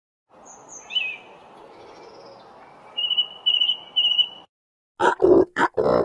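A bird chirping, then giving a repeated high trill, over a faint steady hiss. About five seconds in come four short, loud, rough bursts of an animal sound.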